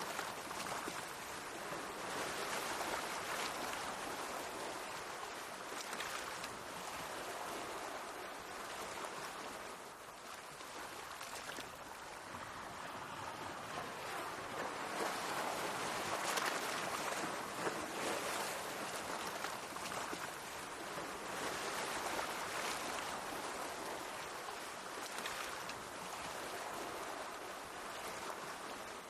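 Small waves of the Mediterranean Sea washing and splashing against the shore, swelling and easing every few seconds.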